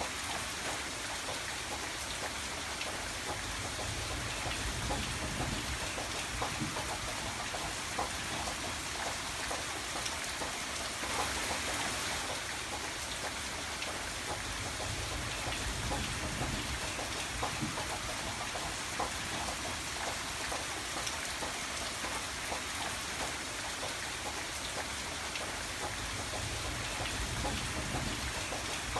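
Steady rain falling, with the close patter of individual drops on a surface. A low rumble swells and fades a few times underneath.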